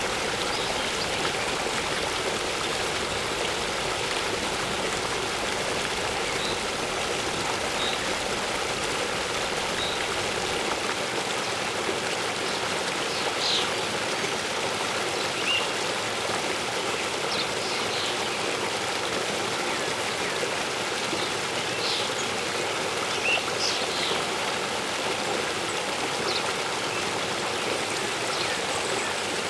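Steady rushing of a waterfall's falling water. Short high bird chirps come now and then over it, more often in the second half.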